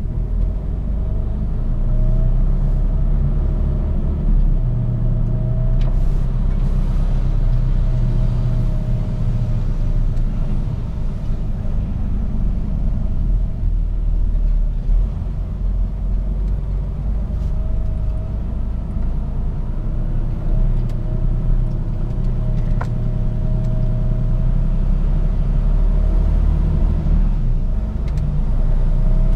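Mercedes-Benz Actros truck driving on the road: a steady low engine and road rumble whose engine tones rise and fall slightly, with a couple of brief clicks.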